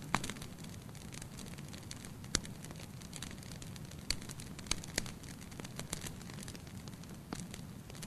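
Wood fire burning in a fireplace: a steady low rush of flames with sharp pops and crackles at irregular moments, the loudest about a quarter-second in and near two and a half seconds.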